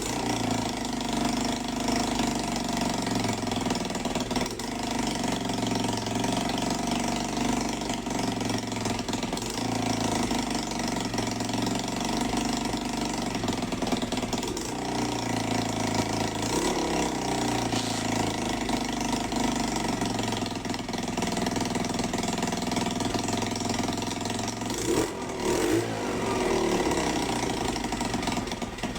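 Chinese Honda-clone single-cylinder four-stroke minibike engine running, its pitch rising and falling as it is revved up and down several times.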